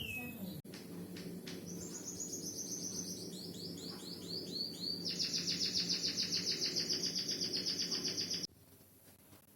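White-headed munia (emprit kaji) singing canary-style song: long rolling trills of rapid, high repeated notes, some runs dropping in pitch, over a steady low hum. The song cuts off suddenly near the end.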